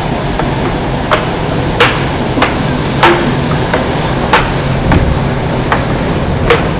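Metro subway train running past a platform: a steady rumble with sharp clicks repeating about every two-thirds of a second.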